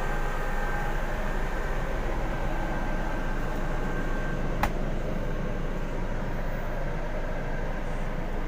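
Steady running hum of a parked bus, with a faint steady whine over it. A single sharp click about halfway.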